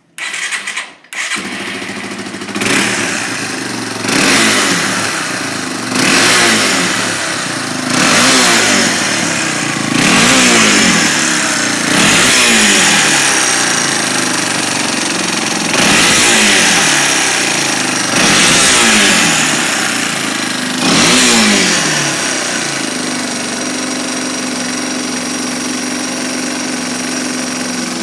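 Yamaha Serow 225W's air-cooled single-cylinder four-stroke engine starting right at the start, then revved about every two seconds, each rev rising and dropping back, about nine times. It then settles to a steady idle for the last few seconds.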